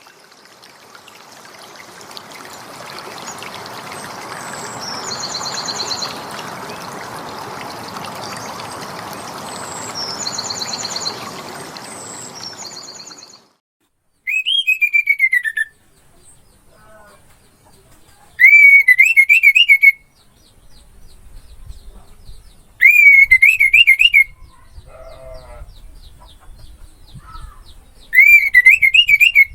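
Orange-headed thrush (anis merah) singing: four loud, wavering whistled phrases about a second and a half each, a few seconds apart, with softer notes between. They start after about thirteen seconds of steady rushing noise with a few short high chirps, which cuts off suddenly.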